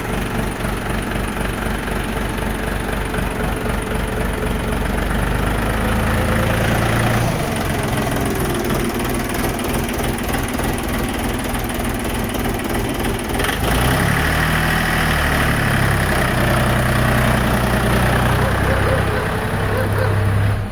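Mini tractor's diesel engine running, its revs rising a few seconds in. About two-thirds through the revs dip briefly, then rise again and hold.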